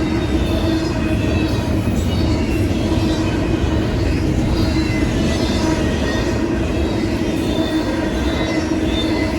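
Train rolling past: a continuous rumble of wheels on rail with a steady hum, and short high squeals that come and go throughout.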